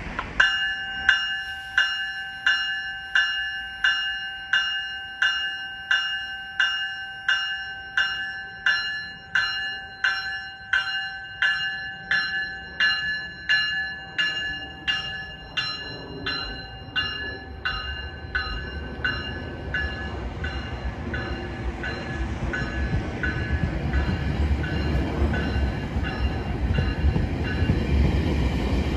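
Departing GO Transit commuter train's bell ringing steadily, a little under two strokes a second, fading away after about twenty seconds. Meanwhile a low rumble of the double-deck coaches rolling past on the rails grows louder.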